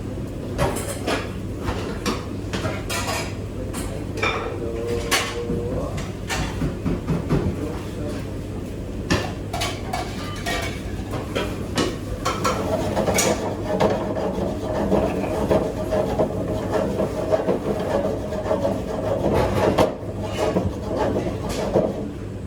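Dishes, pots and utensils clattering and clinking while kitchenware is washed and put away, in irregular knocks, busier in the second half, over a steady low hum.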